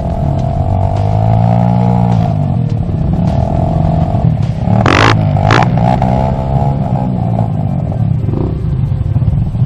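Dirt bike engine running, its pitch rising and falling with the throttle, with two sharp clattering knocks about five seconds in, half a second apart.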